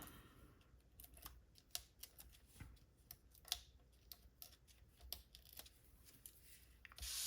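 Faint, irregular clicks and taps of paper and card being handled, with a brief papery swish near the end.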